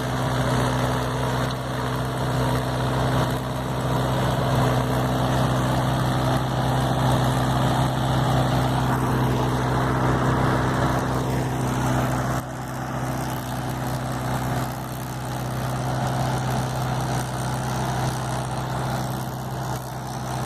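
Diesel tractor engine running steadily at a constant speed, dipping slightly in level about twelve seconds in.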